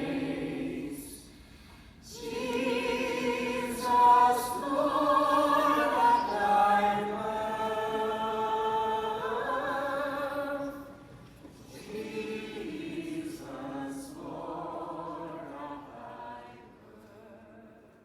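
Choir singing slow held notes with vibrato, in a few phrases with short breaks, fading away near the end.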